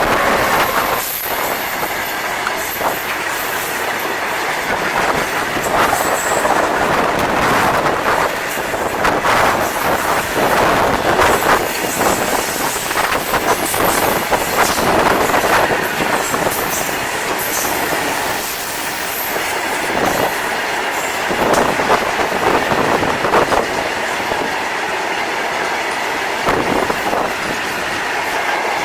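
Heavily loaded freight wagons rolling past at speed: a steady, loud rumble of steel wheels on the rails, with irregular clattering over rail joints and a faint metallic wheel squeal.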